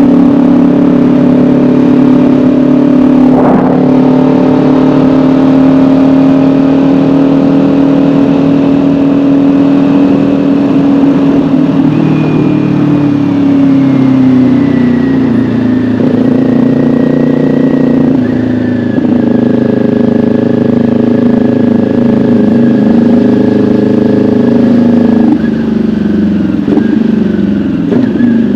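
Kawasaki Ninja 400's parallel-twin engine running under way on the road, heard from the rider's seat. It holds a steady pitch at first, then falls gradually as the bike slows, with two sudden pitch changes later on.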